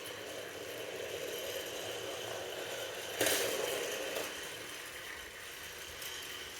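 Battery-powered toy trains running along a plastic track: a steady small-motor whir with a rattle, and one sharp clack about three seconds in.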